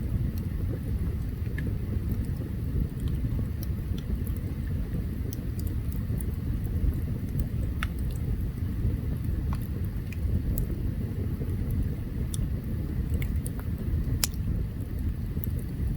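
Open campfire burning: a steady low rumble with scattered sharp crackles and pops, several a second at times, a loud snap about fourteen seconds in.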